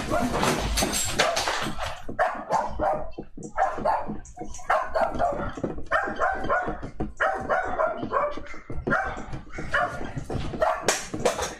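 A dog barking over and over, roughly two barks a second, after about two seconds of loud, even rushing noise.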